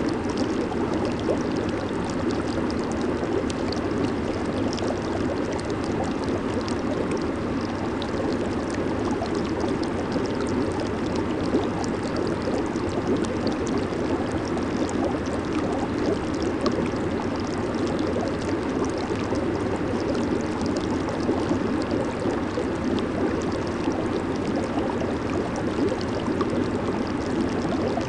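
Jacuzzi water churning and bubbling under its jets: a steady, even rush with a fine fizzing crackle of bursting bubbles.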